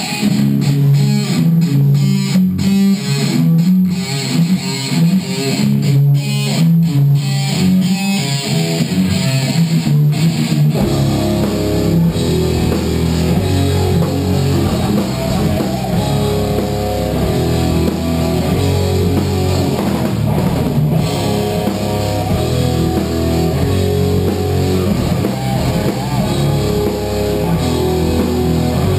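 Rock band playing: a heavy electric guitar riff plays for about the first ten seconds, then bass and drums come in and the full band plays on.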